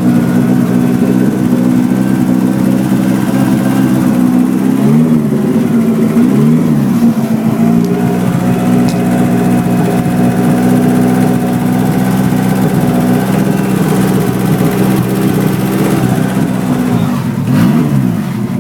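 Freshly rebuilt 1990 Mitsubishi Eclipse GSX's turbocharged 2.0-litre 4G63 four-cylinder running steadily on its first start since the rebuild, with a few brief changes in engine speed about five to seven seconds in and again near the end.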